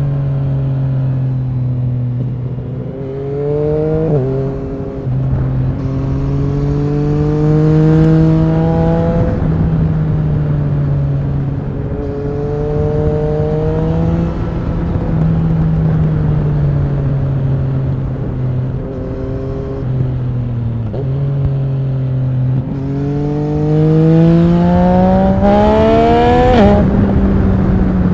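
Yamaha MT-09 SP's three-cylinder engine through an Akrapovic racing exhaust, pulling hard in several bursts. Its pitch climbs and drops sharply at each gear change, and falls away more slowly between the bursts as the throttle is eased off.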